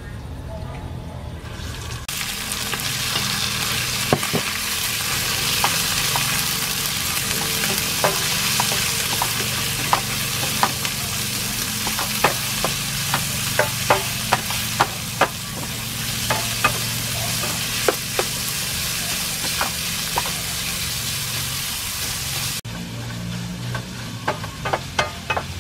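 Minced pork and garlic sizzling loudly in hot oil in a frying pan, stirred with a wooden spatula that knocks and scrapes against the pan in sharp clicks. The sizzle starts about two seconds in, as the meat goes into the pan, and drops away suddenly near the end, leaving a few spatula taps.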